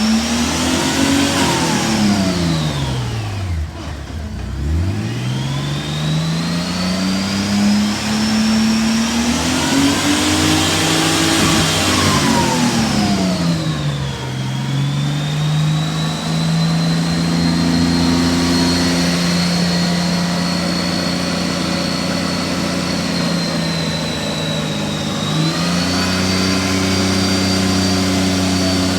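2017 Honda Gold Wing GL1800's flat-six engine being revved: the pitch rises and falls twice, then holds steady at a raised speed. It steps up a little near the end and holds, then begins to drop.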